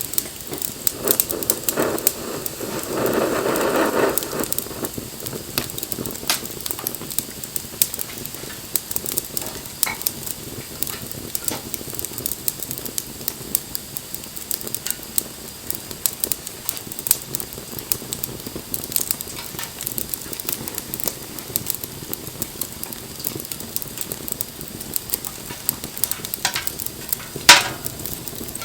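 Wood fire crackling, with frequent small pops and snaps. A louder rush of hissing noise comes about three to four seconds in, and a single sharp, loud pop comes near the end.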